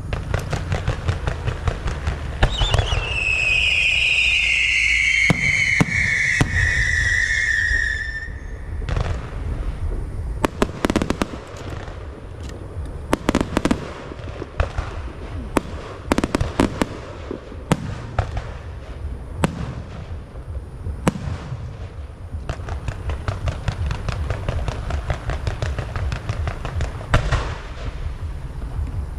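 Fireworks going off: steady crackling, with a long whistle falling in pitch from about two and a half seconds to eight seconds in, then sharp bangs coming at irregular intervals.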